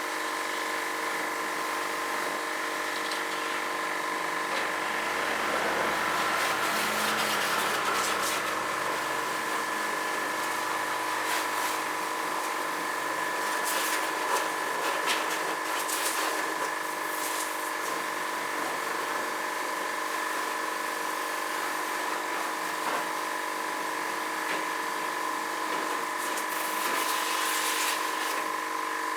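Portable electric pressure washer pump running with a steady whine while its water jet sprays, with a few brief louder hisses.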